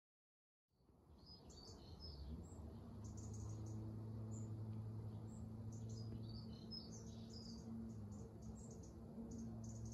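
Garden birds chirping in short scattered calls over a steady low hum, fading in just under a second in.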